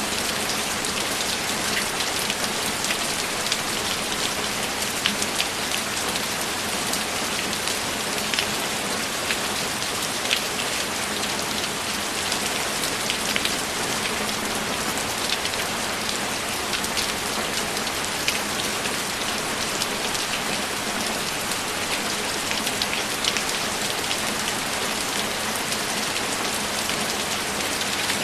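Steady rain: an even hiss sprinkled with many individual drops ticking, without let-up.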